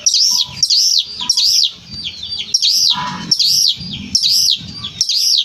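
Long-tailed shrike (cendet) singing hard: a run of loud, repeated arching notes at about two a second, with a short break about two seconds in.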